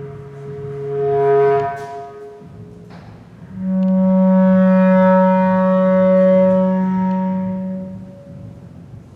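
Bass clarinet playing long held tones. A swelling upper note stops about a second and a half in, then after a short pause with a couple of soft clicks comes a loud, low, sustained note held about four and a half seconds before fading.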